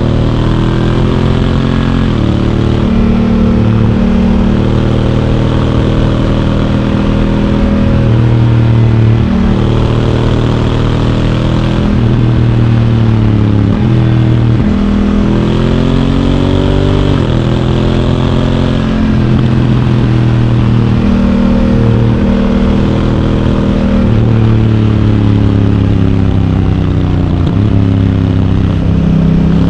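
Honda Africa Twin DCT's parallel-twin engine on the move, its pitch rising and falling again and again as the rider speeds up and slows down, with quick step-downs in pitch as the dual-clutch gearbox shifts on its own.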